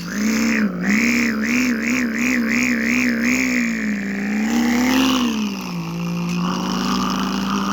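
Race car engine and exhaust sound played as a toy car's new exhaust note. It is a steady buzzing hum that warbles up and down about three times a second, swells up and back down once, then settles to an even drone.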